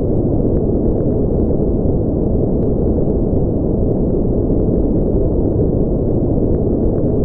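Steady, unchanging noise from a sleep noise track labelled white noise, though it is deep and rumbling, with no high hiss.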